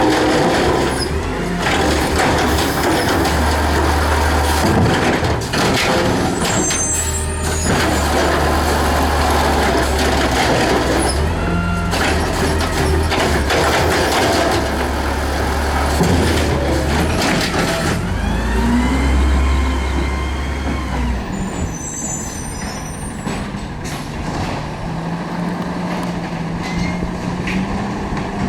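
Garbage truck engine running with a deep, uneven drone, broken by sudden hisses and clanks. About two-thirds of the way through the deep engine note drops away, leaving a steadier, higher hum.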